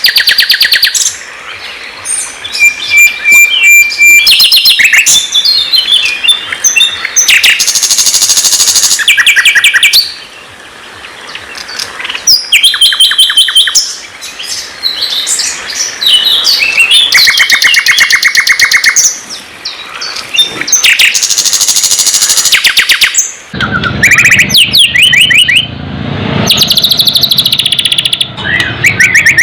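Songbird singing a fast, varied song of rapid trills and repeated sharp notes, in runs separated by short pauses. About two-thirds of the way in, a low rumble comes in beneath the song.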